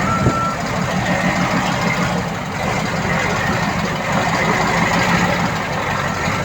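Heavy diesel earthmoving machine engine running steadily under load. A reversing beeper sounds once at the start and faintly again near the end.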